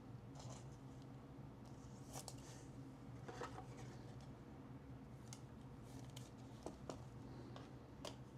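Faint rustles and light clicks of trading cards and card holders being handled, a few scattered times over a low steady room hum.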